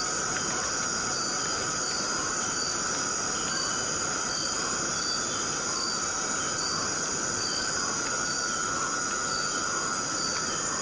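Tropical rainforest ambience: rain falling steadily under a continuous high-pitched chorus of insects, with one insect's short chirp repeating evenly, about every two-thirds of a second.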